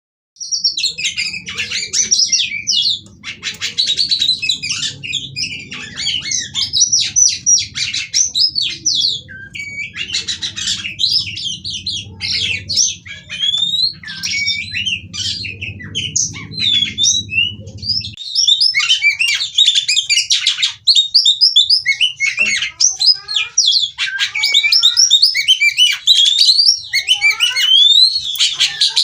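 Female oriental magpie-robin singing nonstop: a rapid, varied run of clear whistles, upward and downward glides and harsh rasping notes.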